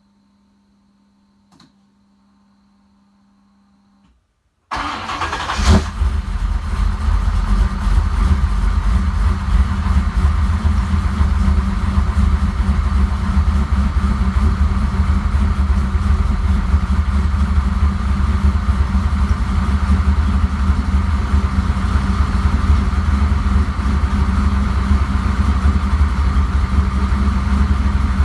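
Car engine cold-starting about five seconds in through a newly fitted Mufflex exhaust with a MagnaFlow muffler, flaring briefly on catching, then settling into a steady idle. Before the start there is only a faint steady hum.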